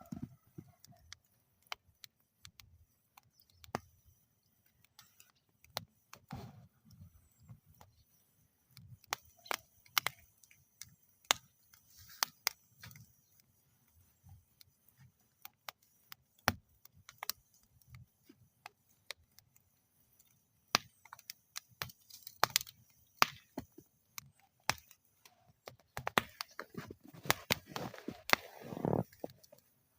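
Wood fire burning in a metal fire bowl, crackling with irregular sharp pops and snaps over a soft low rumble of the flames; the crackling grows denser near the end.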